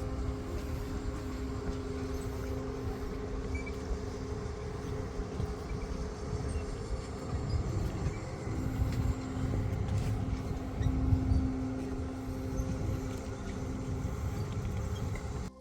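A steady low rumble with a droning hum that fades out for a few seconds mid-way, then returns, cutting off suddenly at the end.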